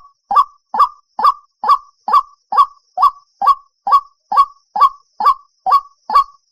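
White-breasted waterhen calling: short notes repeated at an even pace, a little over two a second.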